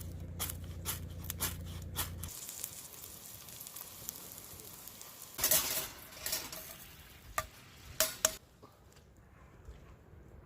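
Food sizzling over a wood fire, with sharp crackling pops throughout, a louder burst of hiss about five and a half seconds in, and a few loud pops around eight seconds.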